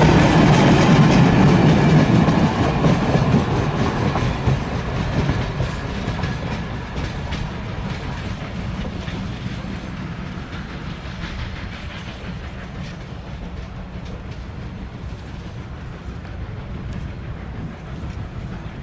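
A passenger train's cars rolling past, their wheels clicking over the rail joints. The sound is loudest at first and fades over several seconds as the train moves away.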